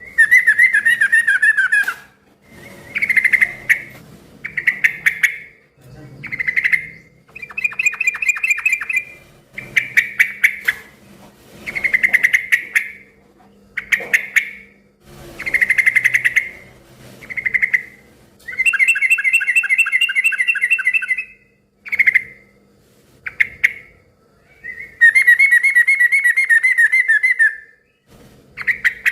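Yellow-vented bulbul (trucukan) singing loudly and persistently: a string of short, bubbling, chattering phrases at much the same pitch, one after another with brief pauses, two of them longer trills in the second half.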